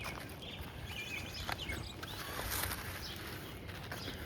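Birds chirping and calling here and there over a steady, faint outdoor background noise.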